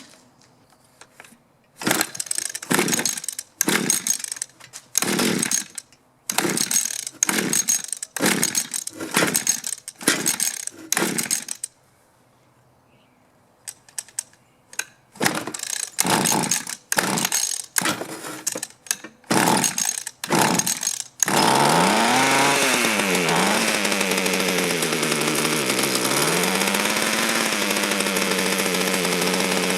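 Mantis mini tiller's small two-stroke engine being pull-started over and over, about two dozen short cranking pulls with a pause in the middle, until it catches about 21 seconds in. It then revs up and down and settles into running steadily, its pitch creeping up; the owner finds it running too rich and spitting fuel from the exhaust.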